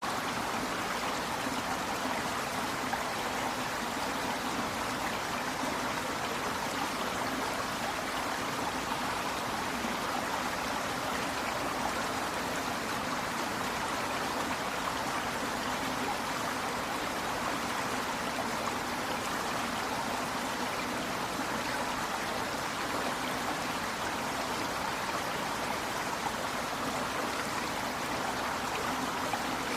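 River water flowing over rocks, a steady rushing with a trickling, splashing texture.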